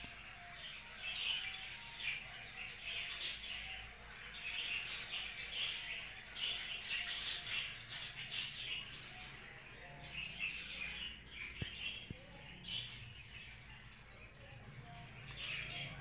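Budgerigar chirping: a string of short, high chirps coming one after another.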